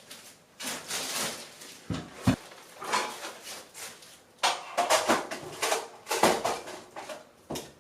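Irregular handling noises: rustling and scraping with a few sharp knocks, busiest in the second half, like camping gear or utensils being moved about and set down.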